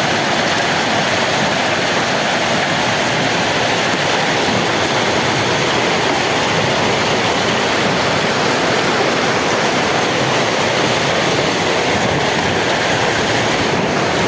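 Hail pelting down heavily in a steady, even noise of countless impacts, with no break.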